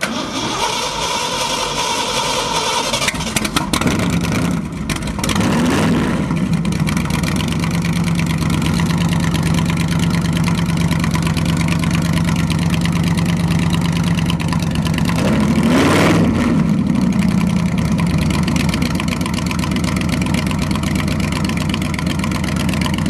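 Old vehicle engine being cranked on the starter, catching about three seconds in with a few blips of throttle, then idling steadily. About two-thirds of the way through it is revved once, rising and falling back to idle.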